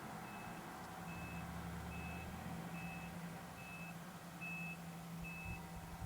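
Snowplow truck backing up: its reverse alarm beeps steadily, a little faster than once a second, over the low running of its engine.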